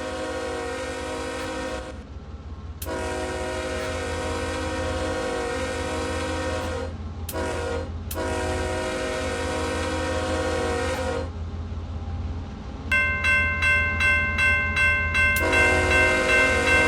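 Norfolk Southern locomotive horn sounding a crossing signal: two long blasts, a short one and a long one. After a pause a bell starts ringing steadily, and near the end the horn sounds again over the bell.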